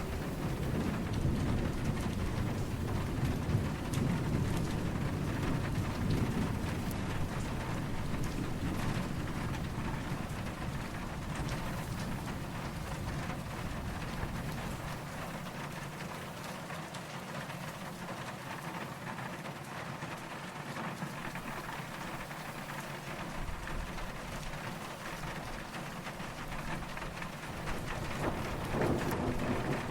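Steady rain falling, with low, distant thunder rumbling through the first several seconds. The rumble dies away, then swells again near the end.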